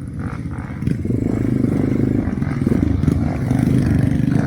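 Motorcycle engine pulling hard under load, getting louder about a second in, as the bike climbs a slippery uphill of rock and mud, with some clattering.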